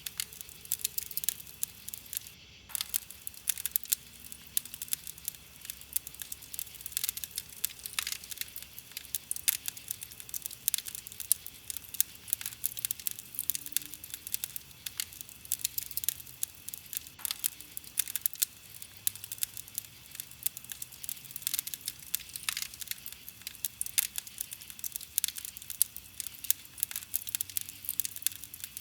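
Wood campfire crackling, with many small irregular pops and snaps over a low hiss of burning wood.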